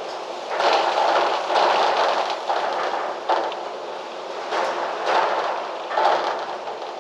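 Gusty wind rushing through trees and foliage. It swells strongly from about half a second in to two and a half seconds, then surges again briefly three more times.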